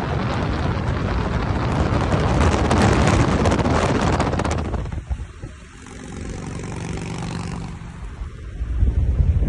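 Harley-Davidson Dyna Switchback's V-twin engine running on the road under heavy wind rush on the microphone. About halfway through, the rushing noise drops away and the engine's steady note comes through. The noise builds again near the end.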